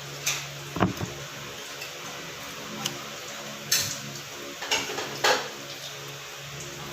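Spoons and forks clinking and knocking against plates and bowls during a meal: a handful of separate knocks, the loudest about a second in and just after five seconds, over a steady low hum.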